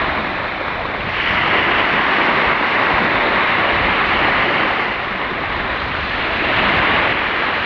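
Steady rushing of water, swelling and easing slowly over a few seconds.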